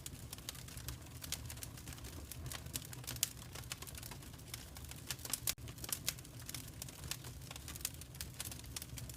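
Fire in a fireplace crackling: a dense run of irregular sharp snaps and pops over a low steady rumble.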